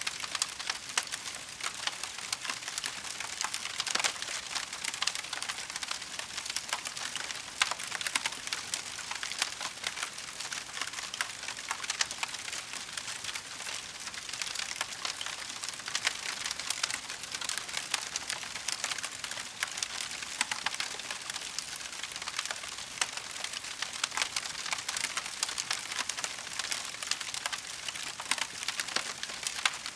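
Wood fire in a fireplace crackling steadily, with a dense run of small pops and snaps over a soft hiss.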